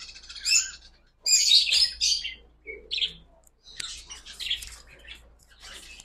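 Caged birds chirping in irregular clusters of short, high-pitched calls, with brief gaps between them.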